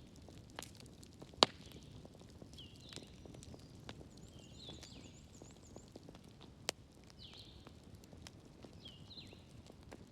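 Wood fire crackling, with irregular small ticks and a few sharp pops, the loudest about a second and a half in and another near seven seconds. Faint high chirps that sweep downward recur throughout.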